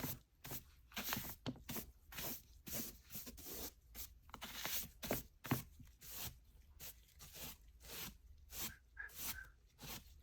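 Paper pages of a large old Oxford English Dictionary being handled and turned, making a quick, irregular run of short rustles and crackles.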